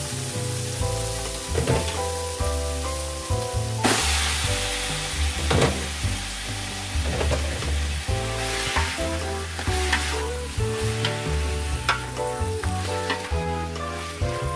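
Onions and raw chicken frying in oil in a large aluminium pot, sizzling, with a spatula stirring and knocking against the pot. The sizzle jumps suddenly about four seconds in, as the chicken goes into the hot oil. Background music plays underneath.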